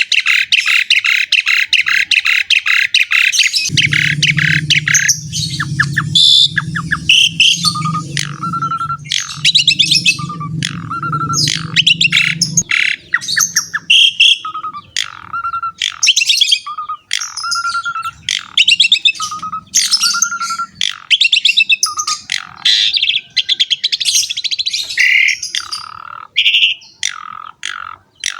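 Asian pied starling (jalak suren) singing continuously and energetically: a rapid trill, then a long run of chattering, whistled and squawky phrases, with a short whistle repeated again and again. A low buzzing sound runs underneath from about four seconds in to about thirteen seconds in.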